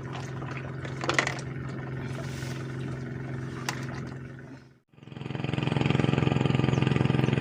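An engine running steadily with an even hum. It fades out briefly about five seconds in, then comes back louder.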